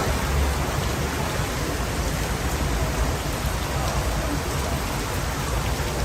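Heavy downpour: a steady hiss of rain falling on road and surfaces, with a low rumble underneath.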